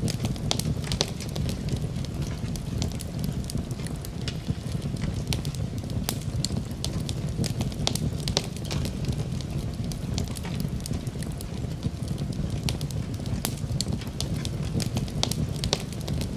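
Wood fire burning in a fireplace, with a steady low rumble and frequent irregular crackles and pops of burning wood.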